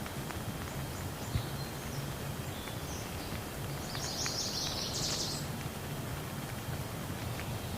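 Steady rain falling with faint scattered drip ticks, and a bird chirping high over it in the middle, a quick run of chirps about four to five seconds in.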